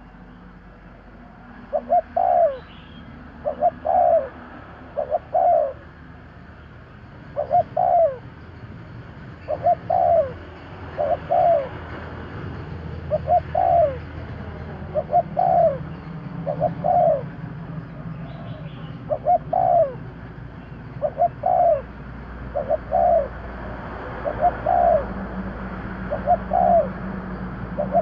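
Spotted dove cooing over and over: short coos that slide down in pitch, mostly in pairs, repeating every one and a half to two seconds.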